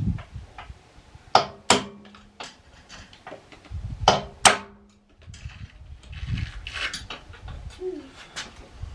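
A hammer striking metal four times, in two pairs about three seconds apart, each blow leaving a short metallic ring; quieter handling noise follows.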